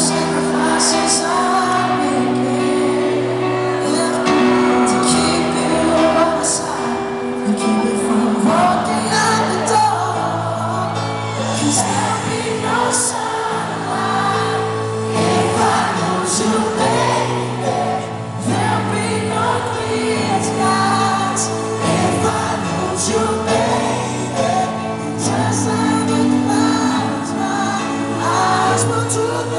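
Live band performance of a slow soul-pop ballad: singing over sustained keyboard chords and bass, with steady cymbal strokes.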